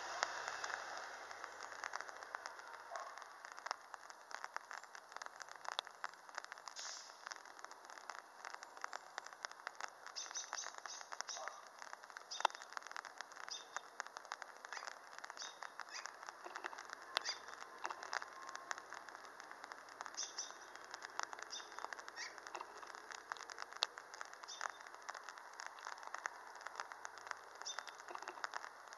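Birds calling in short high chirps that come in scattered bursts, over a steady patter of faint clicks.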